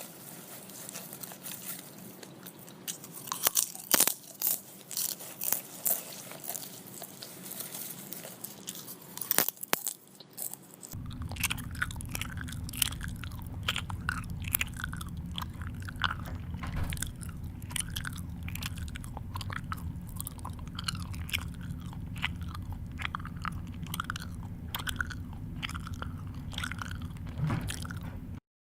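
Dubbed-in crunchy chewing sound effect: a run of crisp bites and crunches. About eleven seconds in, a low hum comes in under it and the crunching becomes quicker and more even. It cuts off suddenly near the end.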